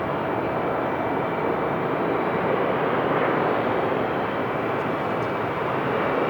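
Airbus A380 jet engines on a landing, a steady spread of jet noise with a faint thin high whine held through it.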